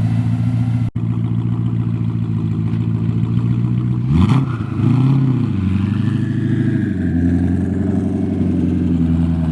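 Twin-turbocharged BMW S65 4.0-litre V8 running at a steady idle, then free-revved: a quick sharp blip about four seconds in, a second rev right after, and then a held higher-rpm note near the end.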